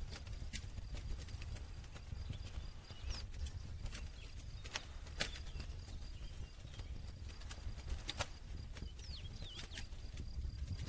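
Wood campfire crackling: irregular sharp pops and snaps, a dozen or so, over a low steady rumble of the burning fire, with the loudest pop about halfway through.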